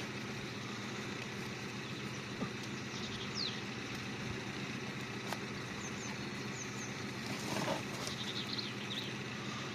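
Steady outdoor background noise, a continuous low hum and hiss, with a small bird chirping a few short high notes about three seconds in and again near the end.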